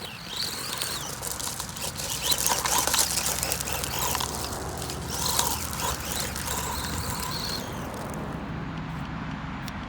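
Hobby-grade RC truck (WLtoys 124018) running fast on a 2S battery with a swapped-in 144001 550 motor: the motor whine and tyre noise swell and fade as it drives about, then grow fainter about eight seconds in.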